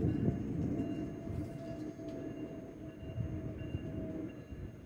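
Metra Electric train rumbling on the tracks, the sound fading steadily away, with a few faint steady tones over the rumble.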